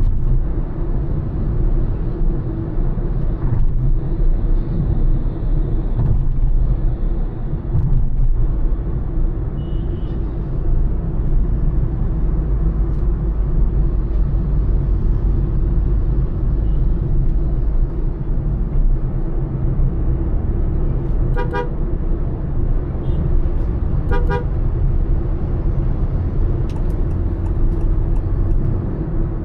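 Honda Elevate SUV cruising at highway speed, a steady engine and tyre rumble with a constant drone. Two short car-horn toots sound a few seconds apart near the end.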